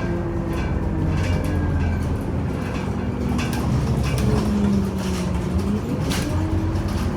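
Scania Omnicity bus underway, heard from inside: a steady low engine and drivetrain drone with a whine that dips in pitch and climbs again about four to six seconds in, and scattered rattles.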